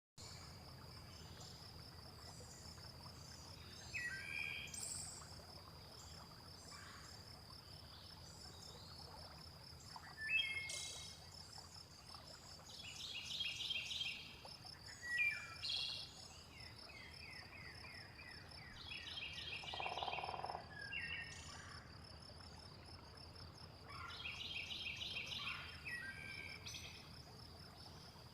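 Layered nature ambience: a steady high insect trill runs under bird calls and chirps that come in repeated phrases, with a lower, shorter call about twenty seconds in.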